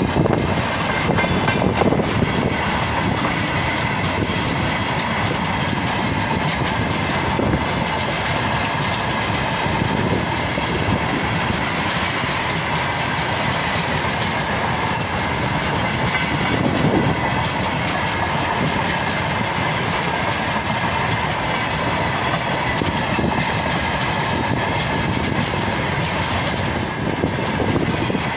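A freight train of tank wagons rolling steadily past, its wheels clattering over the rail joints.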